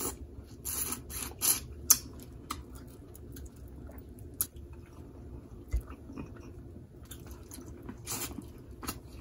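Close-miked chewing and mouth smacking of spicy seafood. Several sharp, crisp crackles come in the first two seconds and another a little after eight seconds, with quieter wet chewing between.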